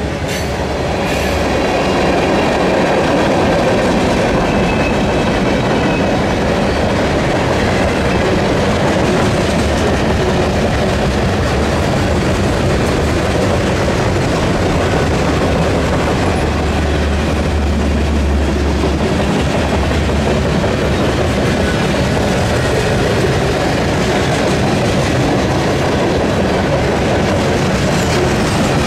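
A mixed freight train's cars rolling past close by: a steady, loud rumble of steel wheels on the rails.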